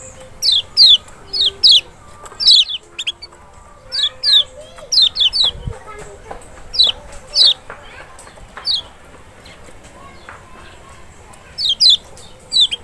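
Kecial white-eye (Zosterops chloris maxi) calling: quick, sharp, downward-sweeping notes, often doubled, repeated irregularly throughout.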